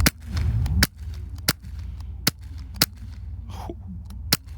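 Umarex Strike Force CO2 BB gun firing about six sharp shots in quick succession, spaced roughly half a second to a second apart.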